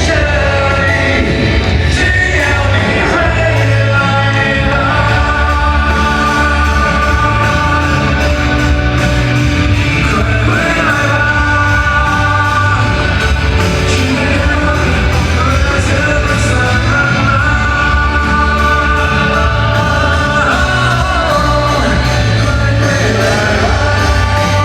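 Live rock band with amplified singing, loud and continuous, the vocals holding long notes over heavy bass and drums.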